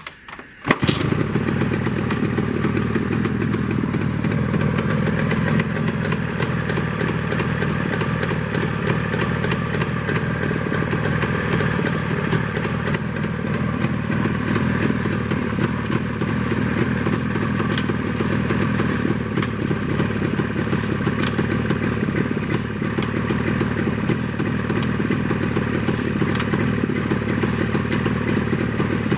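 Freshly rebuilt two-stroke motorcycle engine catching and starting under a second in, then running steadily at idle with a fast, even beat.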